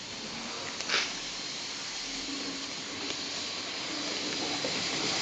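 OO gauge model class 37 locomotive running on the track with its power turned up: a steady whirring hiss of motor and wheels with a faint hum, growing louder, and one short click about a second in.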